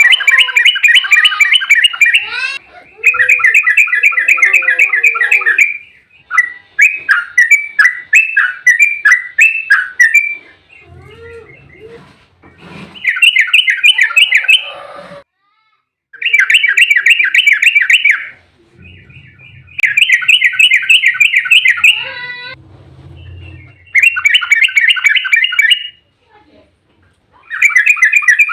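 Yellow-vented bulbul (trucuk) song: a run of fast, bubbly chattering rolls. There are about eight phrases of two to three seconds each, with short pauses between.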